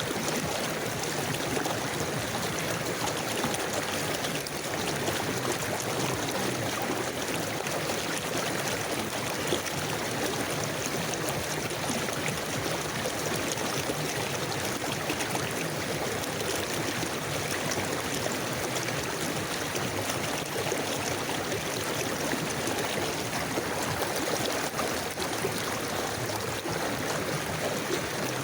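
A river flowing steadily, water rushing and gurgling over stones.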